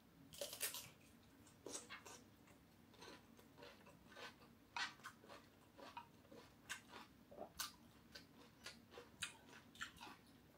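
Close-miked biting and chewing of fresh cucumber: a crisp bite about half a second in, then irregular crunches and mouth clicks.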